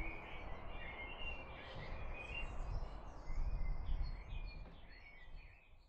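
Several small birds chirping and singing over a low outdoor rumble. The rumble swells a little past halfway, then the sound fades out near the end.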